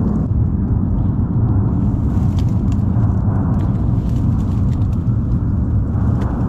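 A loud, steady low rumble without a clear pitch, with a few faint clicks over it.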